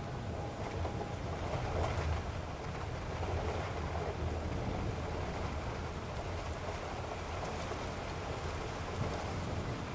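Steady roar of strong storm wind with a deep rumble underneath, unbroken throughout.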